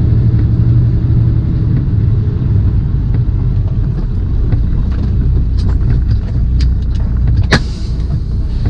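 Semi-truck's diesel engine running at low speed, a deep steady drone heard from inside the cab. Scattered sharp clicks come in during the second half, with one louder sharp click about three-quarters of the way through.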